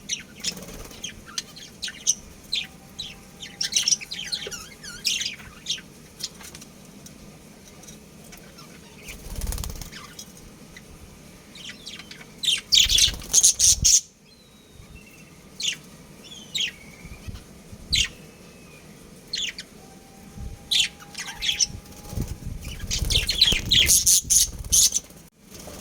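Budgerigars chirping in short high calls, with three bursts of wing flapping lasting a second or two each.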